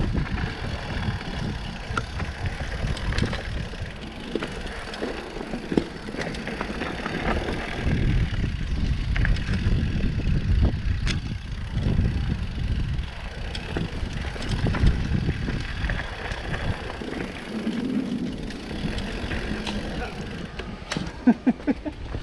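Mountain bike rolling down a gravel downhill trail: tyres crunching and rattling over the gravel, with scattered sharp knocks and a steady low rumble.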